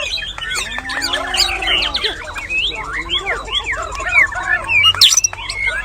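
Several white-rumped shamas (murai batu) singing at once in competition: a dense, unbroken tangle of overlapping whistles, rising and falling glides and quick chirps.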